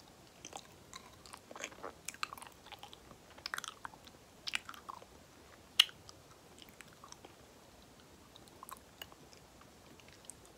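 Close-miked chewing of soft banana, with wet, sticky mouth clicks and smacks, busiest in the first half and thinning out after one sharp click near the middle.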